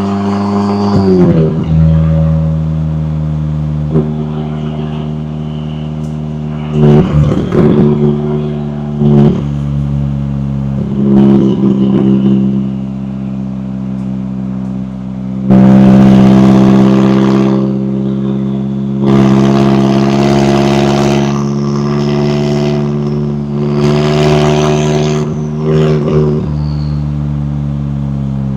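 McLaren 570S twin-turbo V8 running with a steady drone, broken by several short revs in the first half and three louder stretches of harder throttle in the second half.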